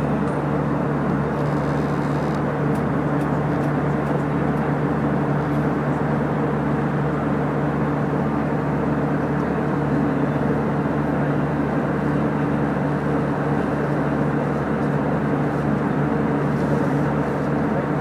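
Steady drone of airliner cabin noise in flight: engine and airflow rush with a constant low hum, unchanging throughout.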